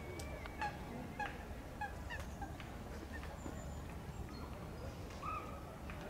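Waterbirds calling on a lake: a run of short repeated calls, about two a second, that thins out after a couple of seconds, with a longer call near the end, over a steady low rumble.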